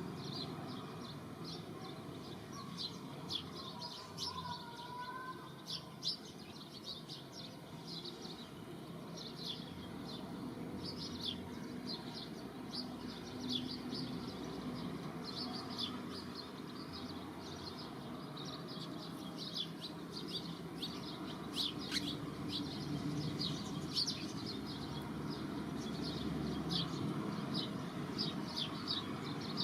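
Small birds chirping: a dense, continuous run of short high chirps, several a second, over a steady low background hum.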